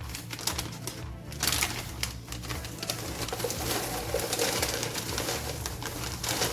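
Brown paper bag rustling and crinkling as it is unfolded and opened, with many small crackles and clicks, over background music.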